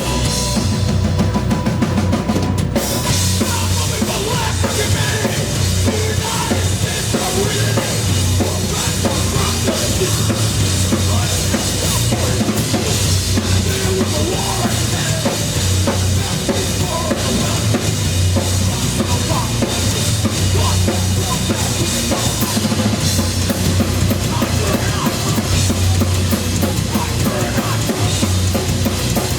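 Live heavy rock band playing an instrumental passage, led by the drum kit over a heavy bass line, with cymbals coming in about three seconds in.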